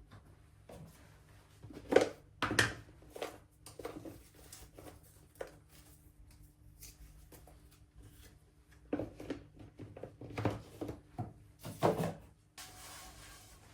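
Kitchen clatter while breakfast is prepared: scattered knocks and clinks of things being picked up and set down, loudest about two seconds in and again near the end, followed by a short steady hiss.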